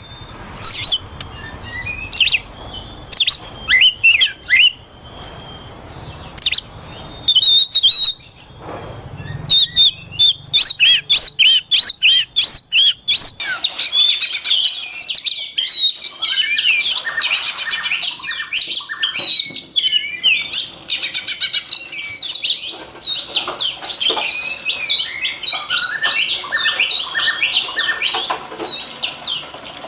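Oriental magpie-robin (kacer) singing. Loud, sharp whistled notes and clicks come with short pauses at first, then about halfway through the song becomes a continuous, rapid high twittering.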